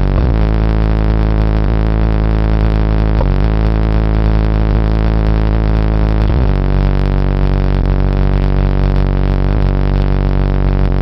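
Very loud, bass-heavy droning music played through a Volkswagen Gol's high-power car audio system. The deep tones are held and shift in pitch at regular intervals.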